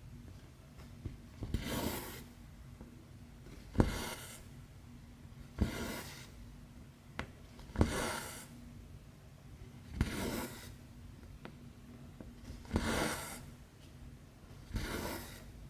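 Cross-stitch needle and floss pulled through stamped 11-count fabric: seven short rasping swishes, each starting with a sharp click as the needle punches through, about one every two seconds.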